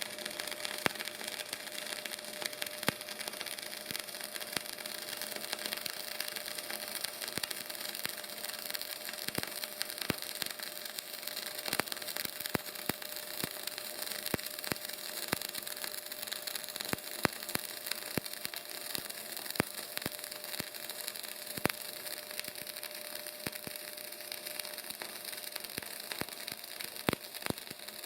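Semi-automatic CO2/MAG welding arc crackling and sizzling steadily as a bead is laid, with frequent sharp spatter pops and a faint steady tone underneath.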